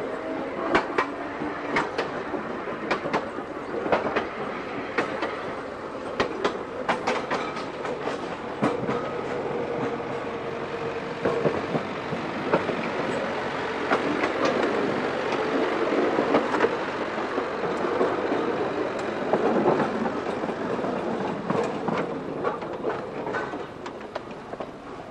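Seaton Tramway electric tram running along the track, with irregular sharp clicks of the wheels over rail joints and a steady whine under the running noise. The sound eases off near the end.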